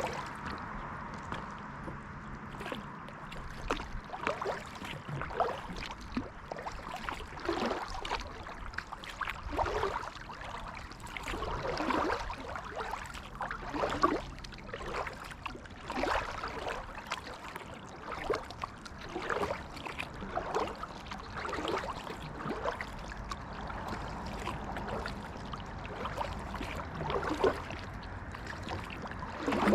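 Kayak paddle strokes in water: the blades dip and splash, with water trickling and gurgling off them in irregular bursts every second or two.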